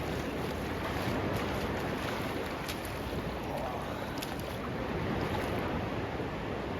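Steady rush of sea surf and wind.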